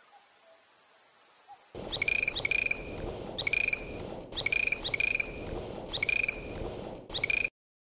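Dolphin calls: short, high squeaky chirps with clicks, repeated in groups about once a second over a steady hiss. They start about two seconds in after near silence, and cut off abruptly near the end.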